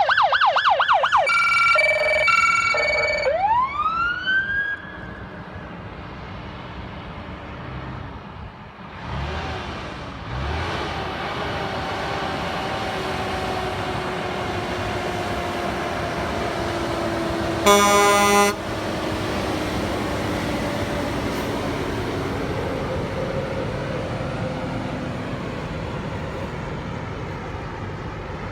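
Electronic emergency-vehicle siren yelping fast, with a few short steady horn tones, then one wail rising and dying away within the first five seconds. Steady road noise of heavy vehicles follows, with a slowly falling drone and a short loud horn blast about 18 seconds in.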